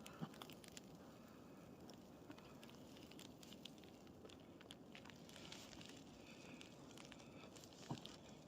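Faint, irregular pattering of light ticks over a soft hush, with a slightly louder tap just after the start and another near the end.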